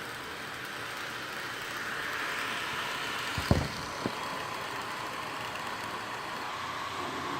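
Razer Blade Pro 2016 laptop's cooling fans running loudly with a steady whooshing hiss that swells and eases a little, an excessive fan noise the owner still considers a defect after repair. A sharp thump about halfway through, and a lighter one half a second later.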